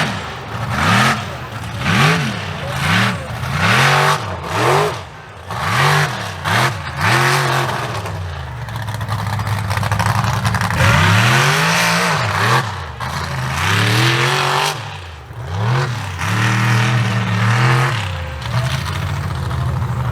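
Mega mud truck engine revved hard and let off again and again, quick blips about once a second at first, then longer, higher pulls, with loud rushing bursts between the revs.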